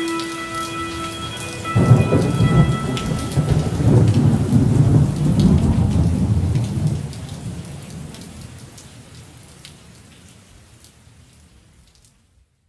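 Rain falling steadily, with a long roll of thunder starting about two seconds in; the rain and thunder then fade out to silence near the end.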